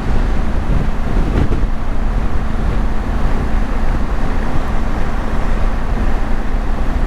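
Motorcycle running at a steady cruising speed under heavy wind noise on the camera microphone, dense and low-pitched, with the engine's steady hum faintly beneath. The noise comes from the strong crosswinds on the open road.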